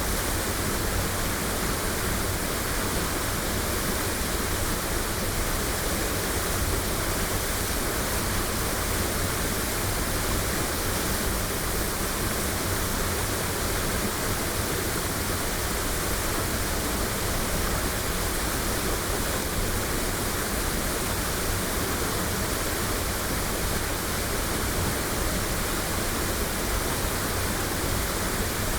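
Waterfall roaring in a steady, unbroken rush of falling water, recorded binaurally.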